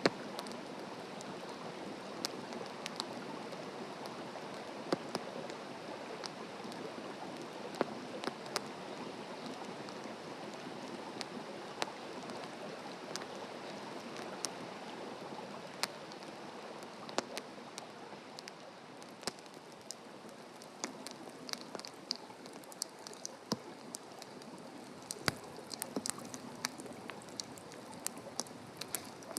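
Wood fire burning in a fire stand: a steady hiss with frequent sharp, irregular crackles and pops from the burning wood.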